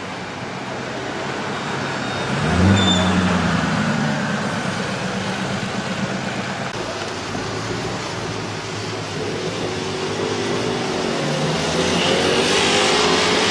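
Koenigsegg CCX's supercharged V8 blipped once about two seconds in, then running at low speed; near the end its pitch climbs again as the car accelerates away, over steady street noise.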